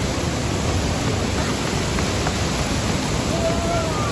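Waterfall: the steady rush of falling water, heaviest in the low range.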